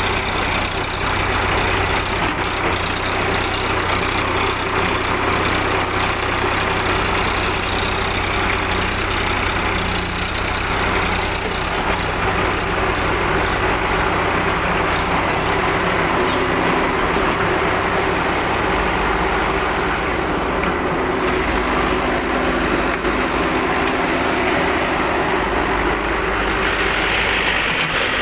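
Heavy diesel engine of working machinery running steadily, its low note shifting a few times.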